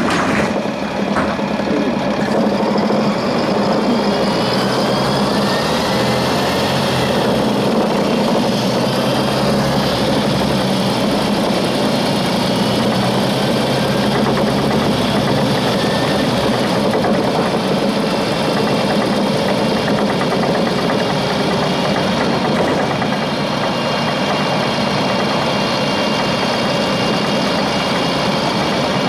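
Diesel engine of a Volvo 7700A articulated city bus running with a steady drone. Its pitch shifts a little in the first third, then holds even.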